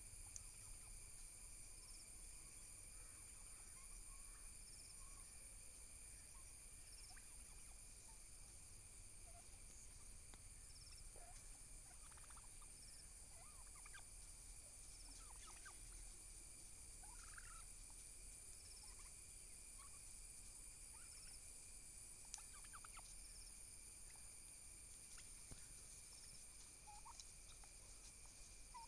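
Domestic turkeys, faint: scattered short calls over a steady high-pitched whine.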